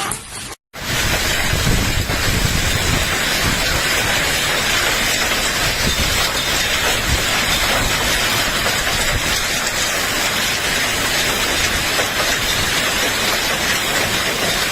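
Heavy hailstorm with strong wind: hail and rain pelting down in a dense, steady, loud hiss with crackle and low rumble, starting about a second in.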